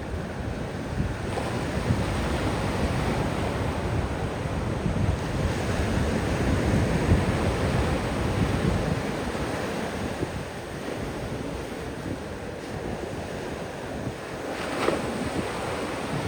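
Ocean surf breaking and washing up a beach in a steady rush that swells louder midway and then eases. Wind rumbles on the microphone underneath.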